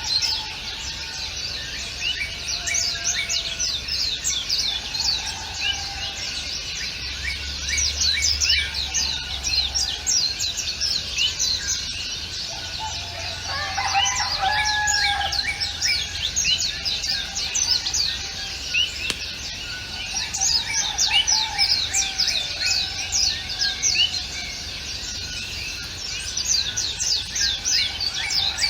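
Dense chorus of many small birds chirping continuously in rapid, quick high notes, with a few lower, longer calls mixed in, most around the middle, over a faint steady low background hum.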